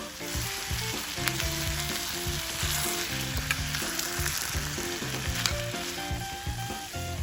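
Campfire crackling and hissing with a few sharp pops, over soft background music.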